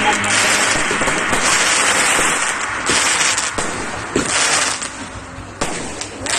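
Fireworks display: a dense crackle with several louder bursts, the loudest about three and four seconds in.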